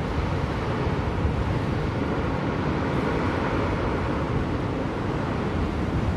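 Blizzard wind blowing steadily, a dense, even rush of noise weighted toward the low end.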